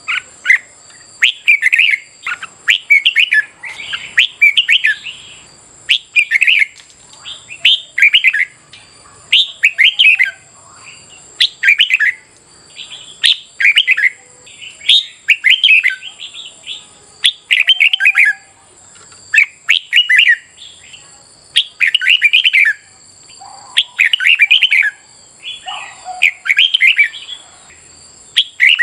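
Red-whiskered bulbul song: short, loud, warbled phrases repeated about once a second, over a faint steady high tone.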